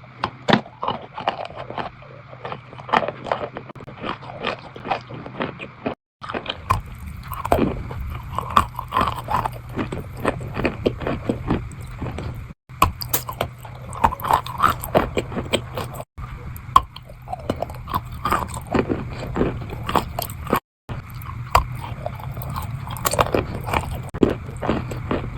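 Close-miked biting and chewing of wet chalk: a run of irregular crunchy clicks and soft crackles as it is bitten and chewed. The sound cuts out to silence four times for a moment.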